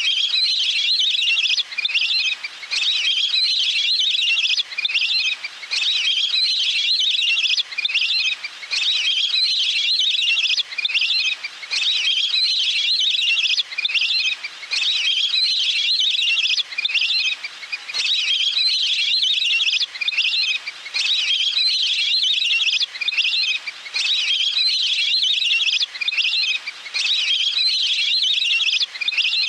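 Recorded waterfowl calls played back on a loop as a hunting lure. The calls are high-pitched and come in phrases of a second or two, repeating evenly with brief gaps.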